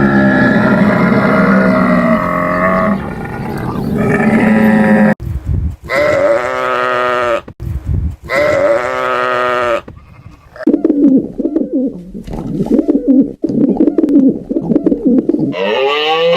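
A series of animal calls: a long call, then two wavering cries about a second apart, then a lower, stuttering call, with another call starting near the end.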